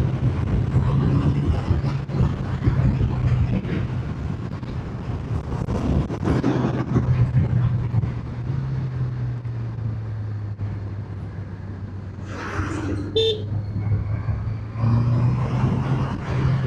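Motorcycle engine running under way, with wind rush over the microphone; the engine note drops a little in pitch partway through and picks up again near the end. A short double horn toot sounds about 13 seconds in.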